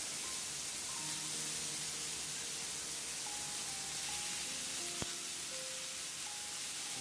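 Broccoli florets sizzling in hot oil on a ridged grill pan, a steady hiss under soft background music. A single sharp click about five seconds in.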